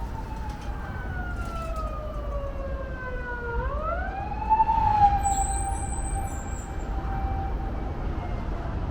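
Emergency vehicle siren wailing: its pitch falls slowly for about three seconds, sweeps sharply back up, holds, then starts to fall again near the end, over a steady low city rumble.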